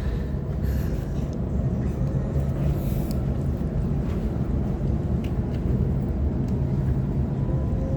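Cabin noise inside a Sydney Trains Waratah electric multiple unit: a steady low rumble, with a faint whine that begins to rise in pitch near the end.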